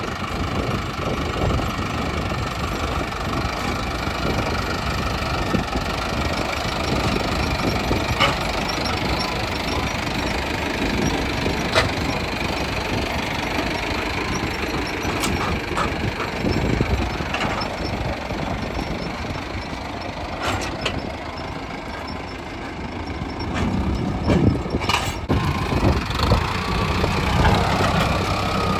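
Mahindra Arjun Novo 605 DI tractor's diesel engine running steadily, with scattered short metallic clicks and knocks. It eases off a little about two-thirds of the way through, then builds up again near the end.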